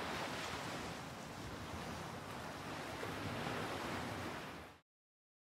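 Steady rushing of ocean surf with slight swells, fading out near the end.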